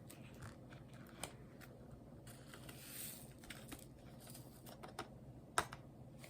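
Faint, scattered light clicks and taps of diamond-painting work: small plastic drills being picked up with a drill pen and pressed onto the canvas, with a brief soft rustle about three seconds in.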